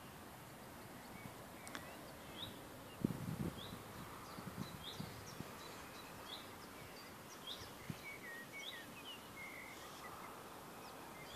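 A bird chirping faintly over a steady outdoor hiss, short rising notes about once a second, with a brief warble about eight seconds in. A few low thumps sound about three seconds in.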